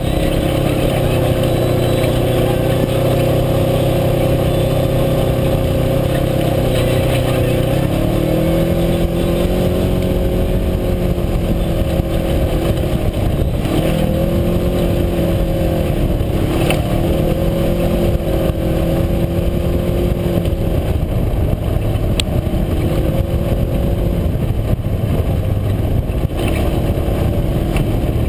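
A side-by-side UTV's engine running as it is driven, with a steady note that steps up in pitch about eight seconds in, then dips and climbs back several times as the throttle changes.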